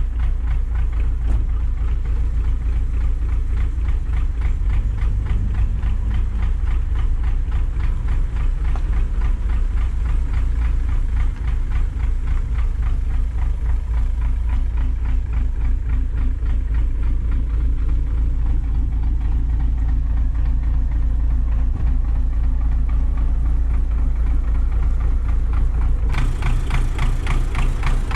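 Belarus MTZ-80 tractor's diesel engine idling steadily with a rapid, even firing beat; near the end its sound turns sharper.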